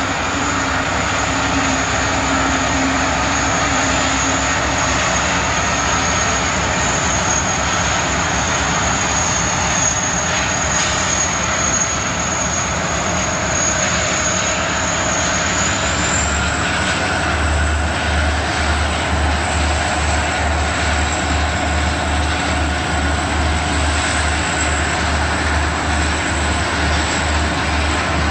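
Freight train rolling past, a steady loud rumble and clatter of cars on the rails. In the second half a low thump repeats about twice a second, like wheels passing over rail joints.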